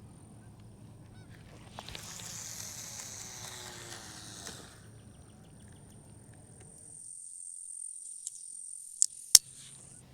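Honking bird calls for a couple of seconds over a low steady hum. The hum stops about two-thirds of the way in, leaving a high thin steady whine, and two sharp clicks come near the end, the second the loudest.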